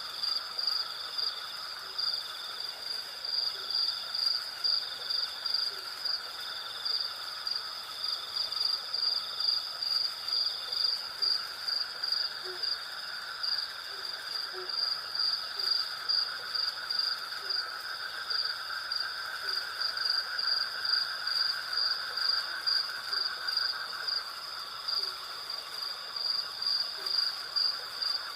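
Night insect chorus: crickets chirping in a fast, even pulse over a steady higher buzz and a lower continuous insect drone. Faint short low notes come at irregular intervals in the background.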